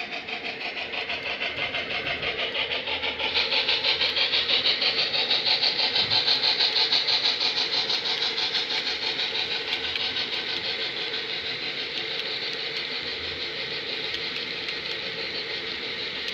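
Model B&O EM-1 Yellowstone steam locomotive running past with a rapid, even steam chuff from its sound system. It grows louder about three seconds in and then slowly fades.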